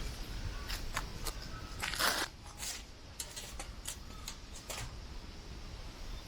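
Strong wind rumbling on the microphone, with scattered sharp crackles and one louder rustle about two seconds in.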